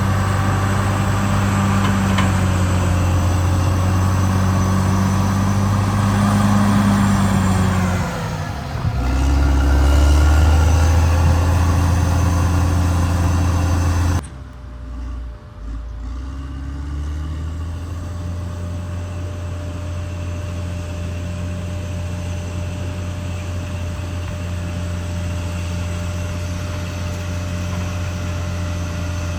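Caterpillar D6R XL bulldozer's diesel engine running under load. About eight seconds in its pitch sags and comes back lower and louder. About fourteen seconds in the sound drops abruptly to a quieter, steady engine note.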